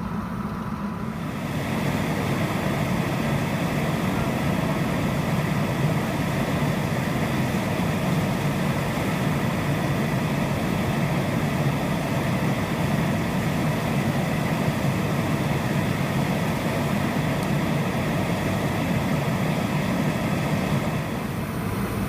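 A steady engine running, with a hiss over it. It gets louder about a second in and drops back near the end.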